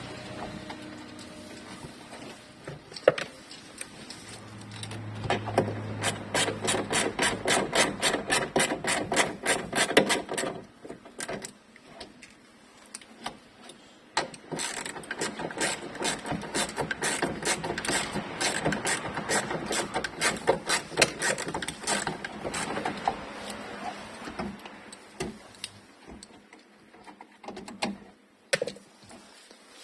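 Rhythmic ratcheting clicks, about four or five a second, in two long runs, from a mechanism being worked on the car's sunroof. A single sharp knock comes about three seconds in.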